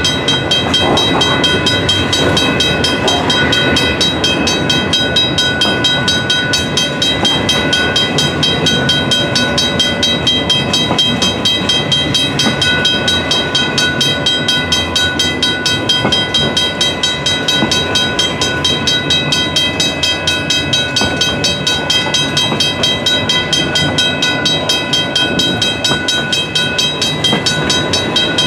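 Freight cars (boxcars and autoracks) of a slow-moving train rolling past, their wheels clicking over the rail joints in a regular clickety-clack. A steady high-pitched whine rides over it.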